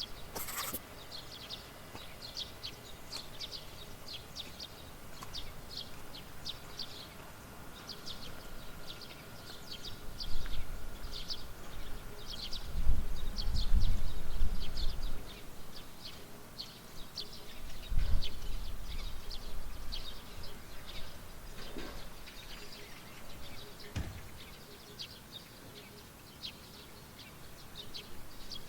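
Rural field ambience: birds chirping over and over in short, high calls, with low rumbles of wind on the microphone for a few seconds around the middle and once more briefly a little later.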